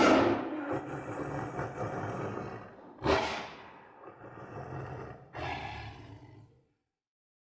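A big cat roaring: three roars, each starting loud and fading away, the second about three seconds in and the third about five and a half seconds in.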